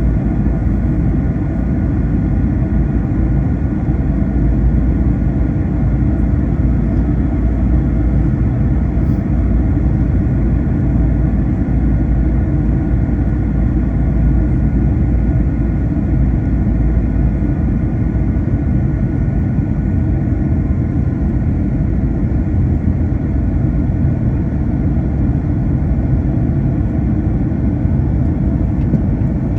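Cabin noise of an Airbus A321 airliner in flight: a steady low rumble of the engines and rushing air, with faint steady whining tones above it.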